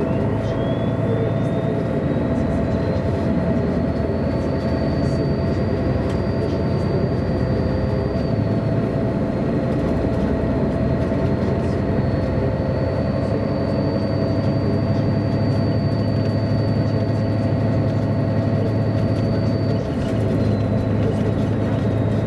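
MAN A23 articulated city bus under way, heard from inside: a steady engine drone and road noise, with a thin high whine that climbs in pitch over the first few seconds as the bus gathers speed, then drops a little about a third of the way in and again near the end.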